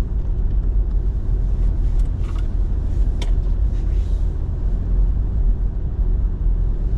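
Steady low rumble of a pickup truck driving on a snow-covered road, heard from inside the cab, with a couple of faint clicks.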